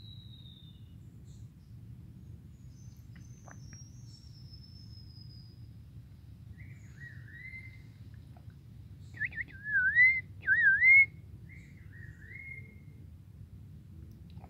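Forest birds singing: two long, thin, high whistles that slide slowly downward in the first half, then a louder run of wavering, looping whistled notes in the second half, loudest around ten seconds in.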